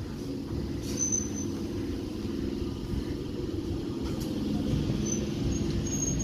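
Electric multiple unit (EMU) suburban local train pulling in and passing close by: steady hum of its motors and rumble of wheels on rails. Short high squeals come about a second in and again near the end.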